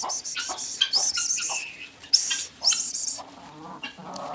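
Chickens, young birds among them, giving a run of quick high-pitched peeping calls that sweep upward, with one louder burst about two seconds in.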